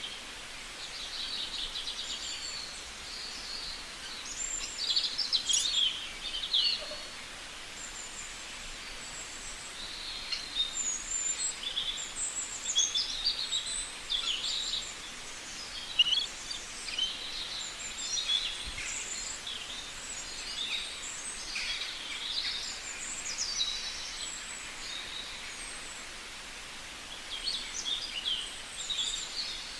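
Birds calling and chirping, many short calls overlapping and coming in clusters, over a steady outdoor background hiss.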